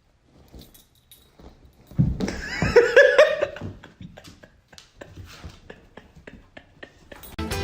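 A dog vocalizing in a short run of rising-and-falling pitched cries about two seconds in, followed by a string of light clicks or taps.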